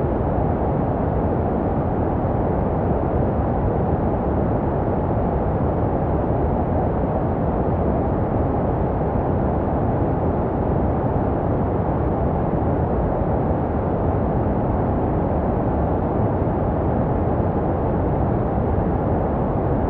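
Steady synthetic white noise for soothing a baby to sleep, a deep, muffled rushing hiss with little treble, unchanging in level, made to resemble what a baby hears in the womb.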